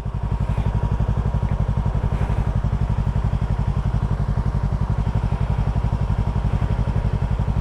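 Motorcycle engine idling steadily, a low, evenly pulsing rumble.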